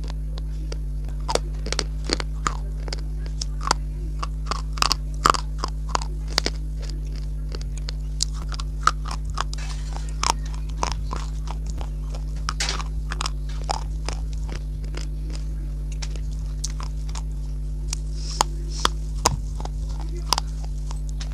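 Close-miked chewing and crunching of a mouthful of chalky clay, with irregular sharp crunches and wet mouth clicks, over a steady low electrical hum.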